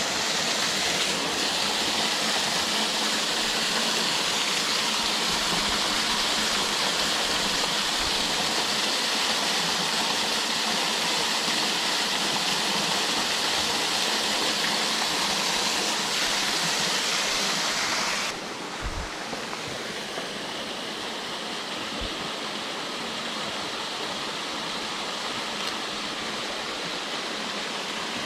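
Waterfall water rushing in a steady, loud hiss. About two-thirds of the way through it drops suddenly to a quieter, softer rush of water.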